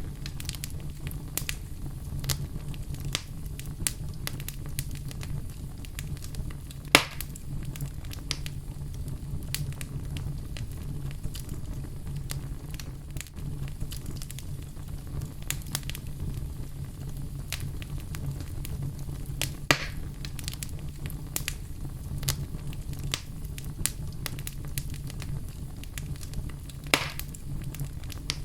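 Wood fire crackling in a fireplace: a steady low rumble of flames with constant small crackles and three louder pops, at about seven, twenty and twenty-seven seconds in.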